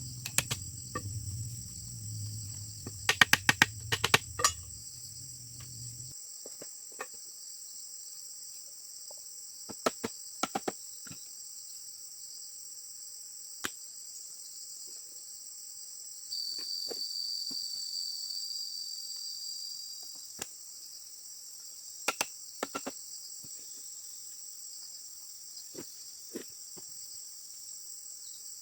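Steady high-pitched insect chirring, with sharp knocks or clicks in scattered clusters, the loudest group about three to four seconds in. A low hum stops about six seconds in, and a second, higher insect tone joins from about sixteen to twenty seconds in.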